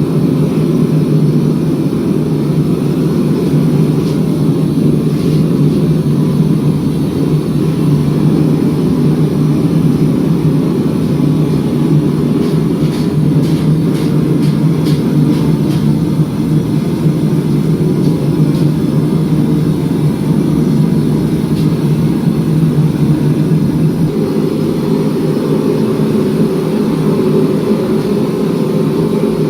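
Steady, loud running of shop machinery in a knife-forging shop, with no break, changing slightly in tone near the end. A few faint ticks sound about halfway through.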